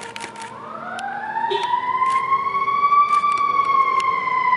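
Emergency vehicle siren wailing. A tone winds up from low about half a second in, climbs to a peak around three seconds, then slowly slides down, getting louder overall. A few sharp clicks are scattered through.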